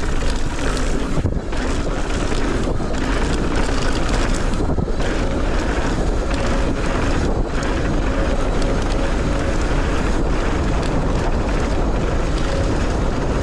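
Steady wind rush buffeting the camera's microphone while a mountain bike is ridden fast down a dirt trail.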